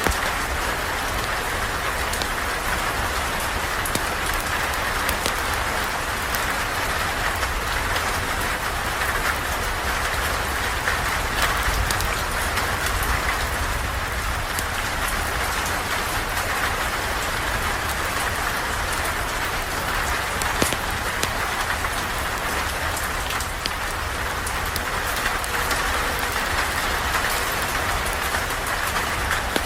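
Steady rain falling, with a low rumble underneath and scattered faint sharp ticks.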